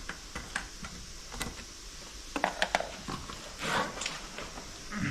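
Scattered light clicks and knocks of objects being handled, with a cluster of clicks about two and a half seconds in and a short scraping rustle just before four seconds.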